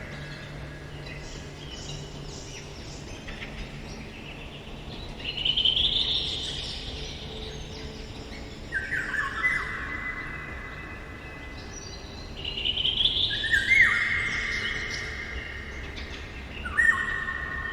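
Songbirds singing, with a loud whistled phrase about every four seconds and softer calls in between.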